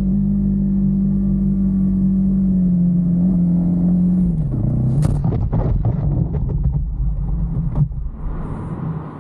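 A vehicle engine running at a steady pitch, then dropping in pitch about four seconds in as it slows and running unevenly after that, with a few clicks and knocks.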